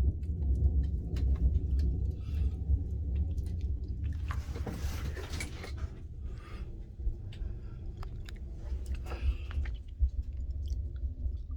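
Wood fire in a glass-fronted fireplace stove drawing hard, a steady low drone, with frequent crackles and snaps from the burning wood and a louder hissing rush about halfway through.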